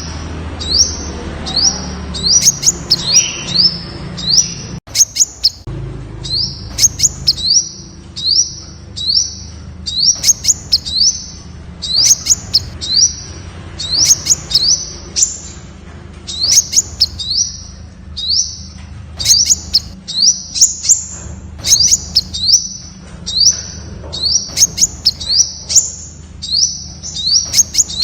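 Temminck's sunbird calling: a rapid string of short, high, sharp notes, given in quick clusters of two to four and repeated without pause.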